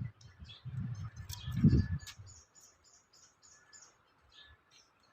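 Long-tailed shrike (cendet) singing a jumble of short, high chirping notes, with a quick run of repeated high notes about two seconds in. Under the first two seconds runs a low rumbling noise that is loudest about a second and a half in.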